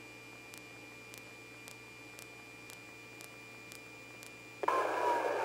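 Police radio channel idling between transmissions: a faint steady hum with a faint tick about twice a second. Near the end a transmission keys up with a sudden burst of static.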